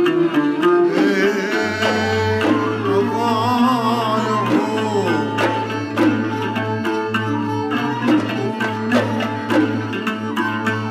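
Traditional Bahraini sawt music from an ensemble: plucked strings over hand drums keeping a steady beat, with a wavering melody line in the first half.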